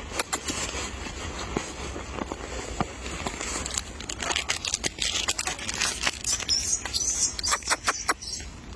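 Monkeys feeding and scrabbling at handed-out bakery food: a scatter of sharp clicks, taps and crinkling, busier in the second half, with short rustling bursts around the middle.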